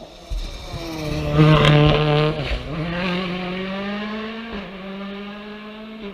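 Rally car engine at full throttle passing close by, climbing through the gears: loudest about two seconds in, with an upshift just after that and another about four and a half seconds in, then fading as it goes away.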